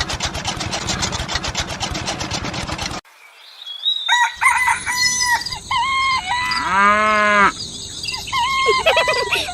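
A fast, even rattle that cuts off abruptly about three seconds in, followed by chickens calling and a rooster crowing once, a little before the end.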